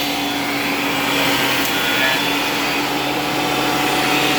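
Shop Fox 13-inch benchtop planer running with a steady motor whine and hiss as a black walnut board is fed through it.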